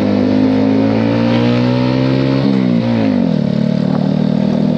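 Honda CB125R's single-cylinder engine running through a Leovince LV10 exhaust while riding. It holds a steady note, then drops in pitch about two and a half seconds in as the throttle is rolled off, and settles at a lower steady note.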